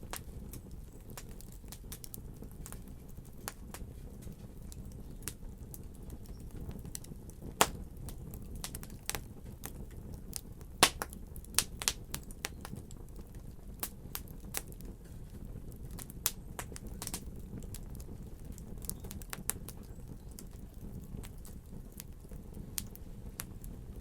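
Fire crackling: irregular sharp pops and snaps over a steady low rumble, with a few louder pops near the middle.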